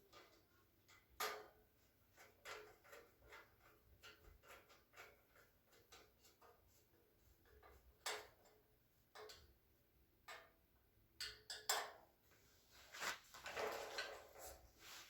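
Faint, irregular clicks and taps of metal shelving parts and screws being handled and fitted during assembly, with a busier stretch of clatter near the end.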